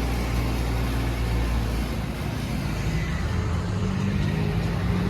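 Mahindra Arjun 555 tractor's diesel engine running steadily while hauling a trolley loaded with wood, its pitch rising a little about two seconds in.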